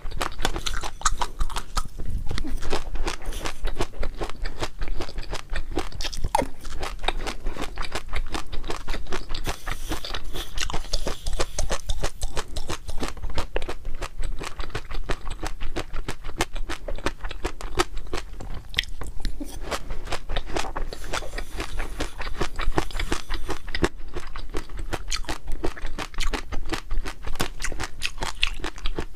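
Close-miked chewing and crunching of crisp food, a dense run of rapid crackling crunches without pause.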